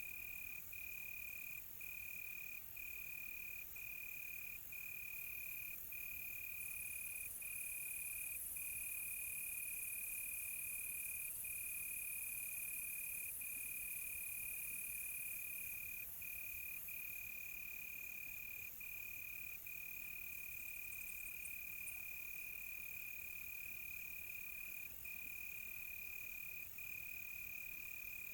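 Crickets chirping in one continuous high trill, broken by brief gaps about once a second, over a steady high hiss that swells for several seconds in the middle.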